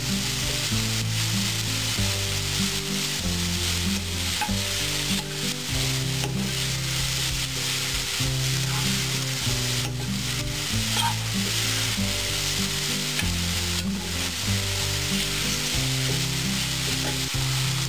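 Shredded cabbage sizzling in a nonstick frying pan while a steel spoon stirs it, with a few short scrapes and knocks of the spoon on the pan. Background music with low held notes that change every half second or so plays under it.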